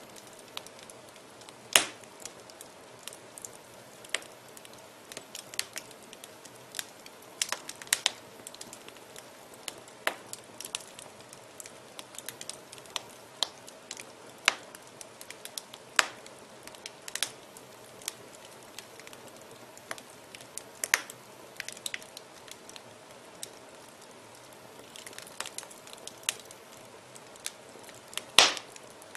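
Fire in a fireplace crackling, with irregular sharp pops and snaps over a low steady hiss. One pop near the end is the loudest.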